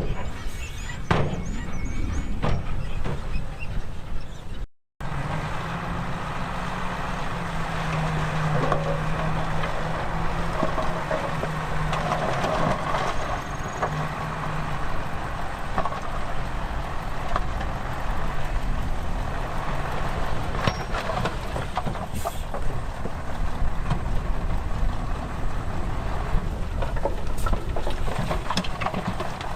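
Heavy diesel earthmoving machines running and working soil, with occasional sharp knocks and clanks over the steady engine noise. The sound cuts out for an instant about five seconds in.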